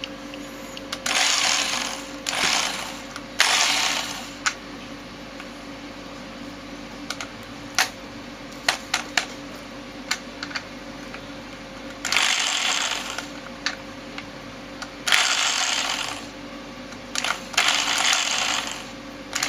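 Electric drill motor run in short bursts of about a second each, six times, with sharp clicks in between from the trigger and forward/reverse switch. The drill turns the same direction whatever the switch setting: the reversing switch is defective.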